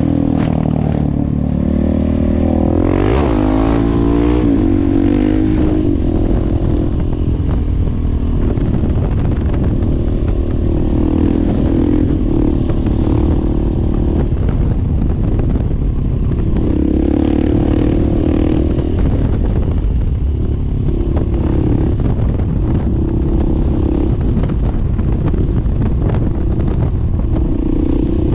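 Husqvarna 701 Supermoto's single-cylinder engine under way: the revs climb and dip through a few quick changes about two to five seconds in, then run fairly steady with small surges, as the throttle holds a long wheelie. A heavy rush of wind noise sits under the engine throughout.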